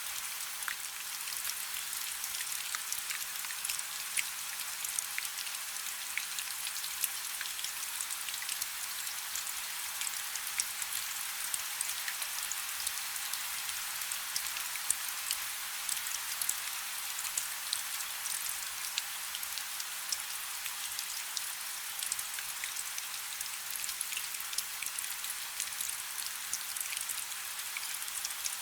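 Steady rain falling on a river, a dense even patter of many small drops.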